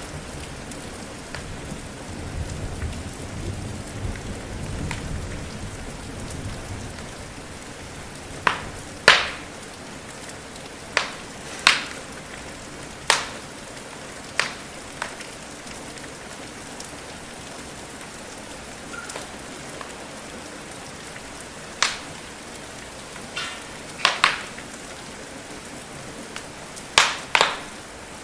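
Steady rain hiss with a wood fire popping sharply about a dozen times at irregular intervals, sometimes two pops in quick succession. A low rumble sits under the rain for the first several seconds.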